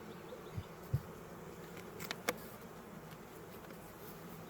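Honeybees buzzing steadily around an open hive, with two soft low thumps about half a second and a second in, and two sharp clicks a little after two seconds.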